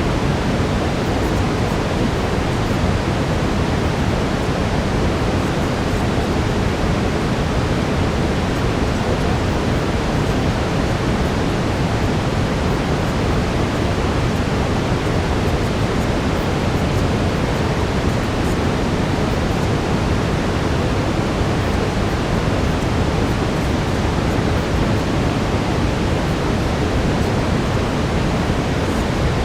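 Steady brown noise: an even, unchanging rushing hiss, heaviest in the low end.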